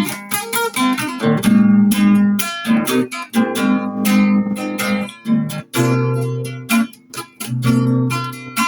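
Acoustic guitar played as an improvisation: a run of plucked notes and strummed chords over ringing low bass notes.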